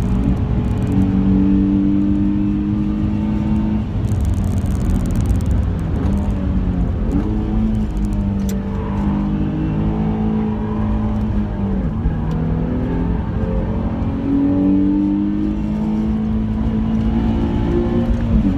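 Nissan 350Z's 3.5-litre V6 heard from inside the cabin under hard track driving, its note rising and falling several times, with a drop at a gear change near the end. Road and tyre noise run underneath.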